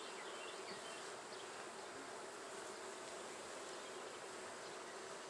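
Honey bees humming steadily around an open hive.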